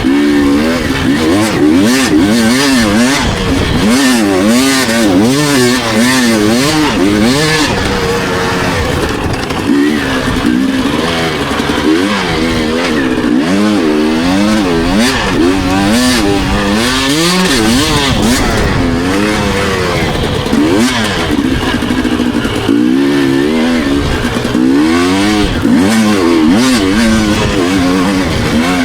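Dirt bike engine revving hard and backing off over and over, its pitch rising and falling every second or two as the rider works the throttle and gears around a motocross track.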